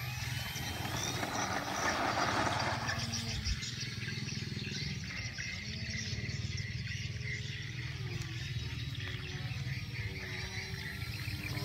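Extra 300S aerobatic plane in flight, its engine droning steadily, with the pitch bending up and down as it turns and manoeuvres.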